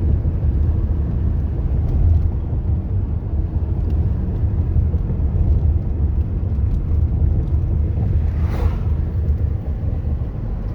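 Steady low rumble of car road and engine noise heard from inside a car climbing a mountain road, with a brief whoosh about eight and a half seconds in.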